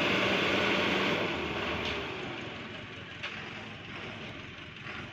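A vehicle engine running loud under load, then easing off about a second in: its pitch falls and the sound fades, with a couple of faint knocks afterwards.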